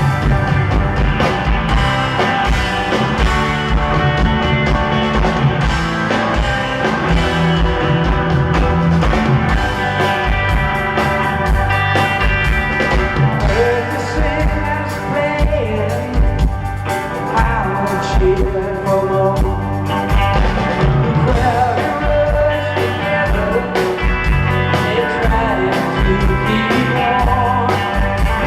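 Live rock band performance: drums, electric guitars and bass playing a steady beat, with singing over them.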